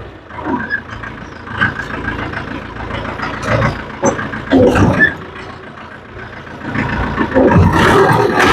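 A vehicle engine drops back sharply, then revs up again to a steady pull near the end, with scattered clanks and squeaks of machinery between.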